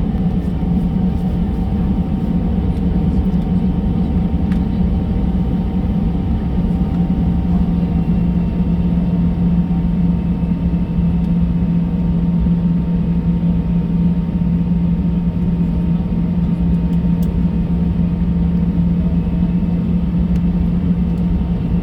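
Steady engine and rolling rumble heard from inside the cabin of an Airbus A320 taxiing at idle thrust, with a constant low hum.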